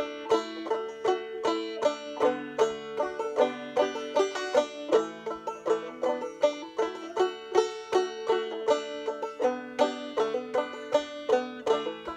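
Instrumental break on a plucked string instrument between sung verses of a folk ballad: a steady run of picked notes over a held low note.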